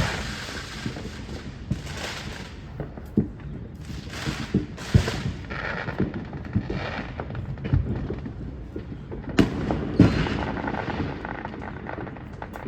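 Backyard fireworks going off: a string of sharp bangs and cracks at irregular intervals over a hissing crackle, the loudest two bangs coming about three-quarters of the way through.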